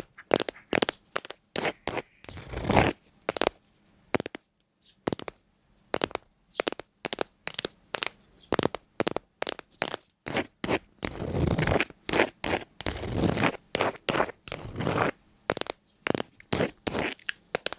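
Rapid, irregular scratching and scraping strokes, many short and sharp, with a few longer scrapes about a third of the way in and again past the middle.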